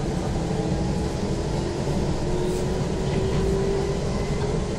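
Running noise of an Izu Kyuko 2100 series electric train heard from inside the passenger cabin: a steady rumble of wheels and motors, with a faint whine that slowly rises in pitch.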